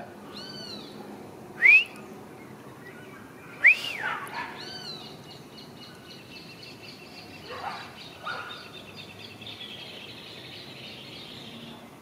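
Birds calling: a few loud, separate chirps that rise and fall in pitch in the first four seconds, then a long, fast, high trill that runs until near the end.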